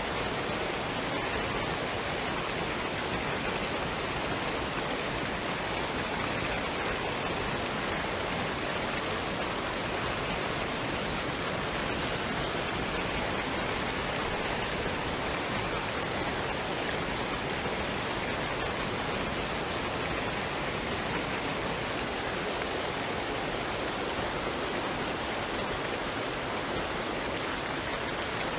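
Waterfall and stream water rushing in a steady, even hiss that does not change.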